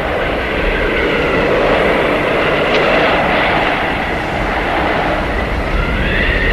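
Blizzard wind blowing hard: a steady rushing with high whistling howls that rise and fall, one swelling and falling away near the end.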